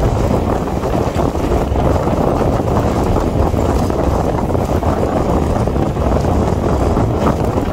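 An electric local train (EMU) running at speed, heard from an open window or door: a steady rumble and rattle of wheels on rails, with wind buffeting the microphone.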